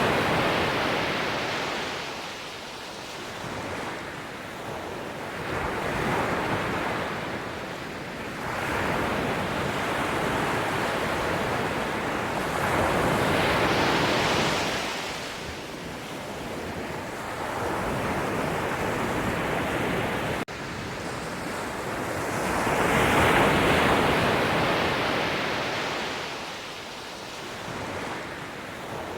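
Sea waves breaking, the surf swelling and fading in slow surges every few seconds.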